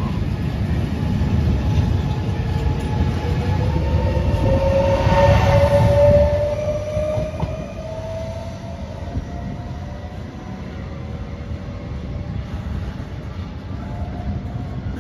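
Trenitalia Jazz electric multiple unit pulling along the platform, its wheels and running gear rumbling loudly. A whine from the traction motors rises in pitch as the train gathers speed. The noise eases off after about six seconds into fainter, steady train noise.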